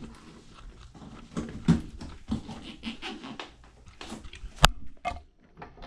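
Scattered clicks and knocks of parts and tools being handled while a component is removed from a washing machine, with one sharp snap about three quarters of the way through and a smaller one just after.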